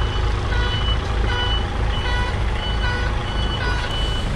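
Container truck's reversing alarm beeping about every three-quarters of a second over the steady rumble of its diesel engine as the rig backs up.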